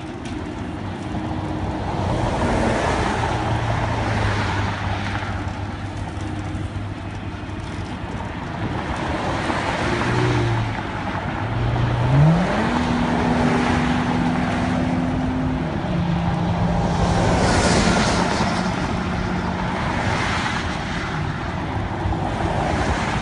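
A vehicle engine running steadily, then revving up about halfway through, holding the higher speed for a few seconds and easing back down. Freeway traffic swishes past in several waves.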